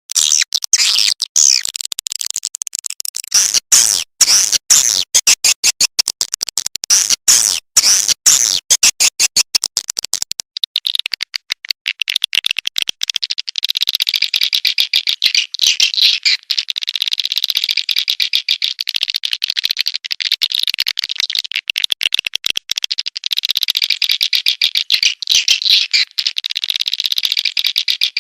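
Recorded swiftlet calls played as a lure sound to draw swiftlets into a nesting house. Rapid high chittering and clicking trains with short breaks, turning about ten seconds in into a denser, unbroken high twittering.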